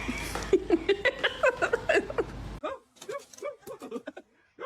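Rapid short bursts of human laughter, broken by an abrupt cut about halfway through, with a few clicks and more brief laughing syllables after it.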